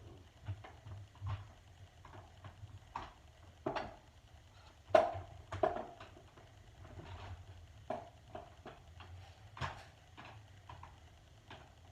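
Handling noise: irregular clicks and knocks of things being moved and set about, the loudest pair about five seconds in and another near the end.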